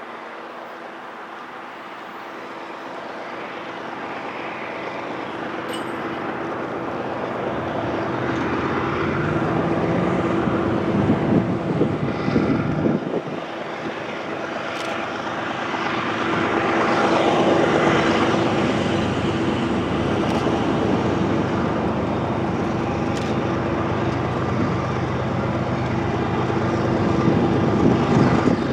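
BNSF diesel locomotives approaching and passing with their engines running, a steady drone that grows louder over the first ten seconds.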